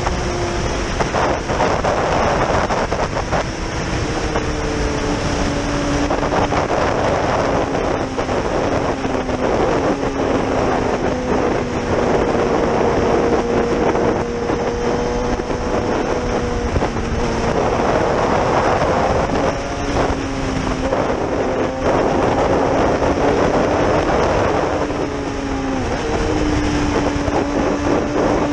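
Yamaha R6's inline-four engine running under way, its note stepping and gliding up and down with throttle and gear changes, with wind rushing over the microphone that swells several times.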